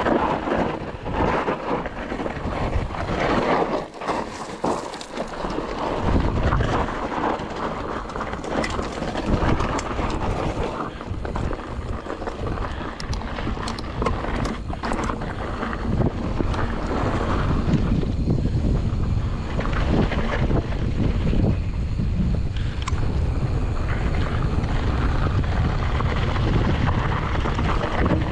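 Mountain bike descending a rough enduro trail at speed: wind buffeting the action-camera microphone, tyres rolling over dirt and rock, and frequent sharp knocks and rattles from the bike over the bumps.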